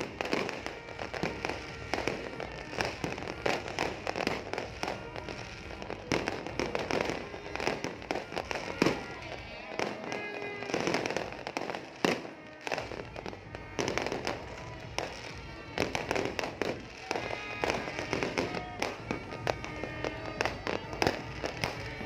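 Fireworks going off in a dense, irregular series of bangs and crackles, with music and voices underneath.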